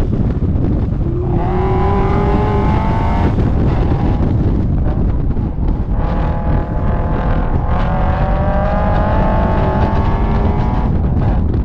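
Scion FR-S's 2.0-litre flat-four engine pulling hard on a racetrack, heard from outside the car with heavy wind rushing over the microphone. The engine note rises about a second in, drops away around three seconds, and rises again for a longer pull from about six seconds, ending shortly before the end.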